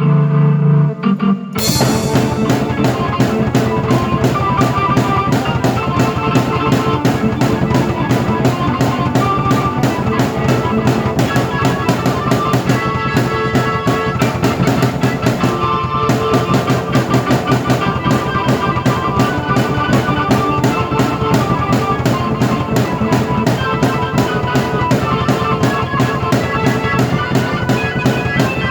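Drum kit and keyboard played together in a full-band rock song, the drums coming in with a driving steady beat about a second and a half in, with a brief break in the drums about halfway through.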